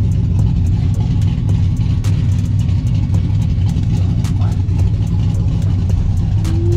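A car engine idling with a steady, deep, loud rumble.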